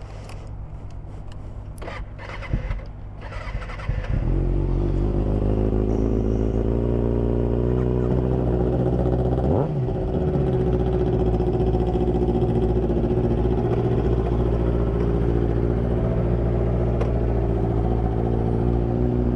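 Motorcycle engine starting with a sudden jump in level about four seconds in, after a few knocks, then idling steadily. A brief rising sweep comes about halfway through.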